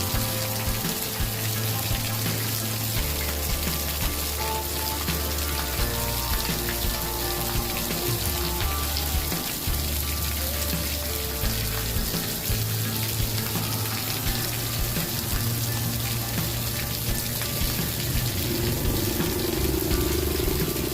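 Campfire crackling with fine pops over a steady water-like hiss, typical of a rain-and-fire ambience track. Soft sustained low musical tones run underneath, stepping to a new pitch every second or two.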